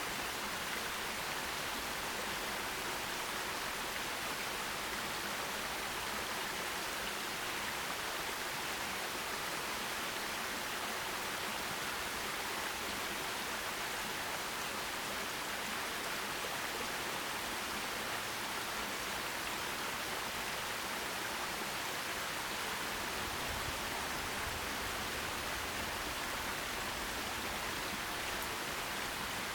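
Forest stream running: a steady rushing of water over stones, even and unchanging.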